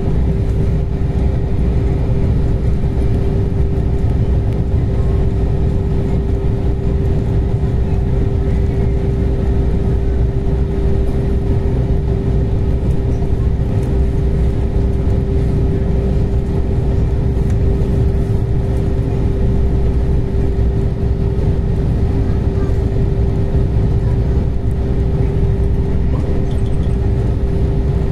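Steady running noise inside a moving passenger train: a loud low rumble with one constant whine held at the same pitch throughout, as at a steady cruising speed.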